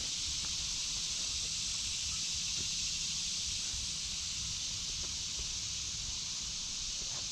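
Steady high-pitched chorus of cicadas over a low rumble, with faint scattered crunches of footsteps on leaf litter.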